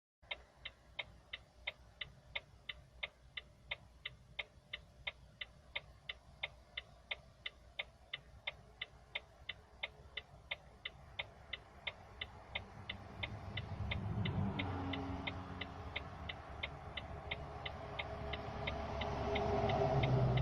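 Car turn-signal indicator clicking steadily, about two clicks a second, heard inside the cabin. Low engine and road rumble builds up about two-thirds of the way through as the car gets moving.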